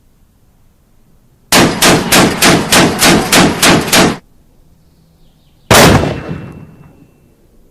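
Gunfire sound effect: a rapid string of about nine shots, a little over three a second, then after a pause a single shot that rings out and fades slowly.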